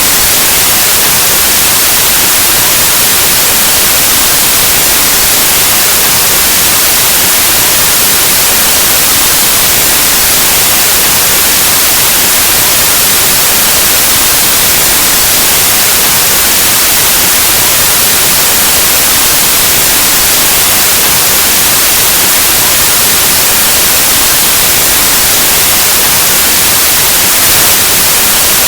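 Steady, loud white noise: an even hiss like analogue TV or radio static, unchanging throughout.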